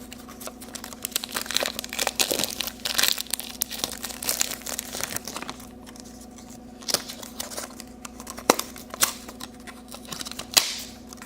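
Plastic wrapping on a small surprise toy crinkling and tearing as it is unwrapped by hand, with scattered sharp clicks and crackles.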